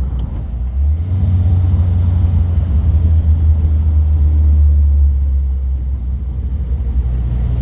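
A classic car's engine and road noise heard from inside the moving car: a steady low drone. The note rises slightly about a second in and drops back about five seconds in.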